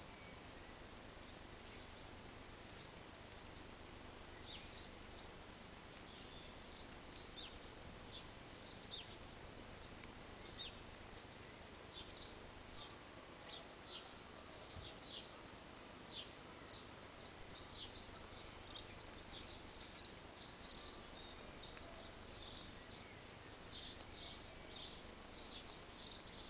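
Small birds chirping outdoors, a string of short high chirps that grows busier about halfway through, over a faint steady hiss.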